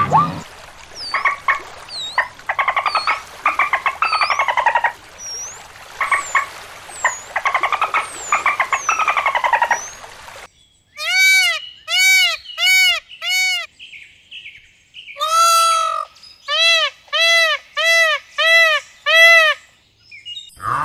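Small birds chirping and trilling, with quick high sweeping chirps over rapid trills. About halfway through, this gives way to a peacock's loud, short, nasal calls, repeated about two a second in two runs.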